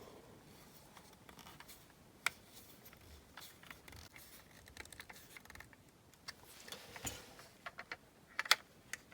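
Faint, scattered clicks and scrapes of a small screwdriver and screws being worked into the metal base of a die-cast model car, with a cluster of sharper clicks near the end.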